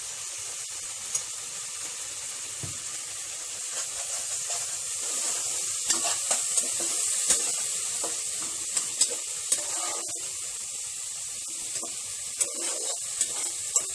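Onion and spice masala (ginger-garlic paste, red chilli and turmeric powder in oil with a splash of water) sizzling in a pot as it is stirred, with the spatula clicking and scraping against the pan several times from about halfway through.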